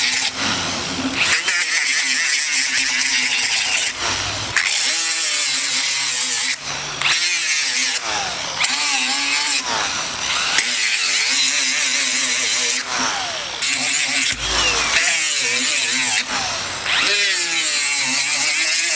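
A handheld power tool running at varying speed, its pitch rising and falling, in several short clips cut together.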